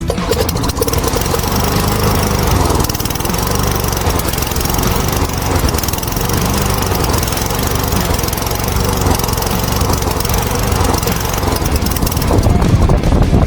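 An engine running steadily, cutting in suddenly and staying loud throughout.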